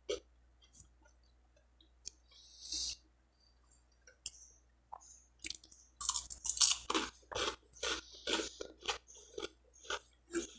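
A person biting and chewing crisp toasted French bread roll with butter, made in a sandwich maker, close to the microphone. After a few faint clicks and a short hiss, the crunchy chewing starts about six seconds in and keeps up at about two crunches a second.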